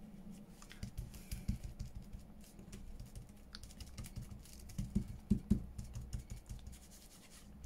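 Irregular light taps and clicks of craft tools and paper being handled on a tabletop, with a few louder knocks about five seconds in.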